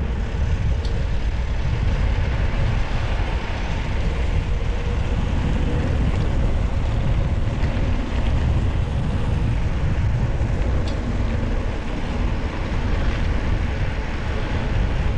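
Wind buffeting the microphone while riding a bicycle: a steady low rumble.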